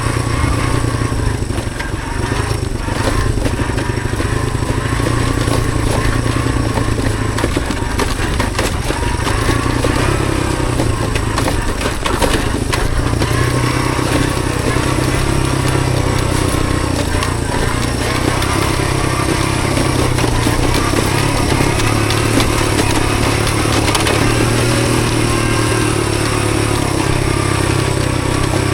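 Honda CT110 postie bike's small single-cylinder four-stroke engine running steadily while riding, its revs rising and falling a little. A few sharp knocks sound over it.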